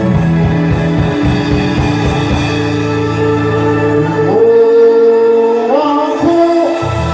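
Worship song: singing voices held on long notes over instrumental backing. The bass drops out for a couple of seconds past the middle while the held notes step upward.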